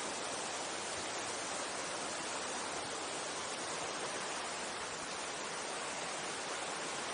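Mountain stream water rushing, a steady even hiss.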